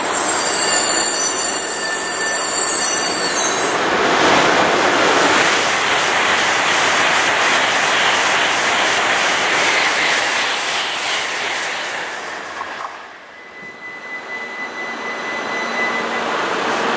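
E5-series Shinkansen running along the platform track: a loud rush of wheel and air noise, with a high squeal over the first few seconds. It dies away about twelve seconds in, leaving a faint steady tone.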